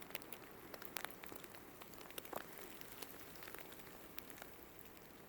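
Small twig-and-tinder fire crackling faintly, with scattered sharp pops over a low steady hiss as the fire starter underneath catches the kindling.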